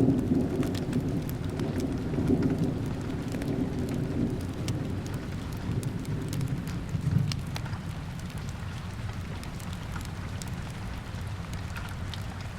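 Steady rain with scattered sharp ticks of drops. A low roll of distant thunder dies away over the first half.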